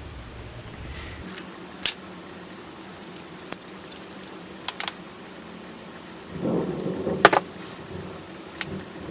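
Stone being knapped: a series of sharp, irregular clicks as small flakes snap off a pebble, with a rougher scraping stretch a little over six seconds in. A low rumble stops about a second in.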